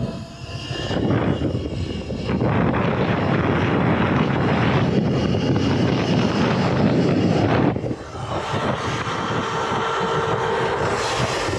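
Wind rushing over the microphone and tyre noise from a Surron electric dirt bike on the move, with a faint, steady electric motor whine. The noise eases briefly about half a second in and again about eight seconds in.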